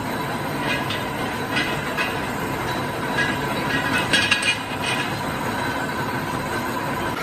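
Factory machinery running steadily, with irregular sharp metallic clinks of metal parts being handled or worked.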